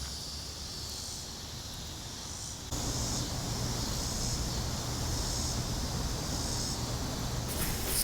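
Cicadas buzzing steadily in a high, pulsing drone over a low rumble. A few seconds in the whole background steps up louder, and near the end there is some rustling.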